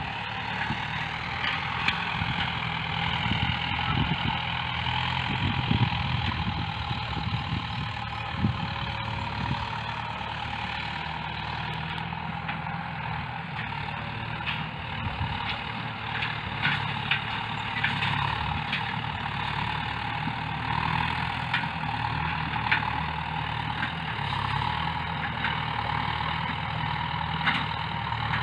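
Farm tractor engine running steadily as it ploughs a field, with scattered short knocks.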